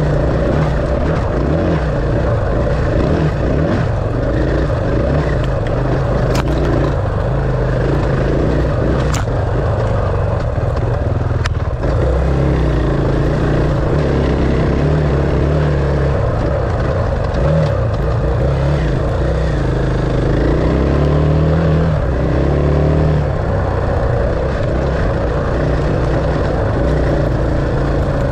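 Dirt bike engine running under changing throttle while riding, its pitch stepping up and down as the revs change, with a few sharp ticks between about six and twelve seconds in.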